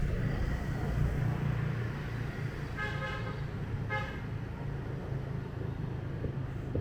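Two short vehicle horn beeps about a second apart, over the steady low rumble of a motorbike engine and street traffic.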